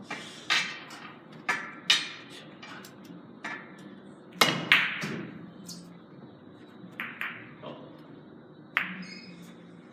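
Carom billiard balls in a three-cushion game: the cue tip striking the ball and balls clicking against each other and the rails, a string of about nine sharp clicks at uneven intervals, the loudest pair about halfway through.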